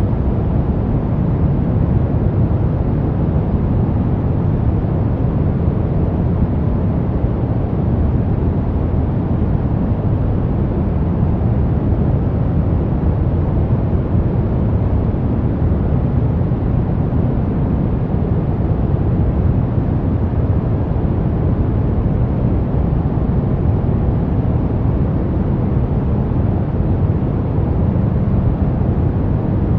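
Steady brown noise: an even, deep rush of noise with most of its weight in the low end, fading toward the highs.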